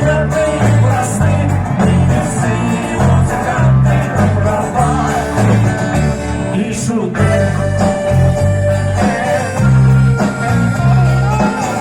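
A live pop band playing: a bass line stepping in a steady beat under guitar and a melody line.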